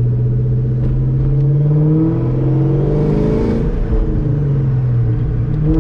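Supercharged 4.6-litre V8 of a 2003–04 Mustang SVT 'Terminator' Cobra with an X-pipe exhaust, heard from inside the car as it accelerates. The engine note climbs, drops at an upshift about two seconds in, and climbs again.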